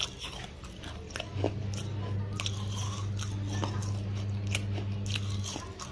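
Close-miked crunchy chewing of baked clay and chalk paste: sharp crunches and crackles at irregular intervals. A low steady hum sets in about a second and a half in and stops shortly before the end.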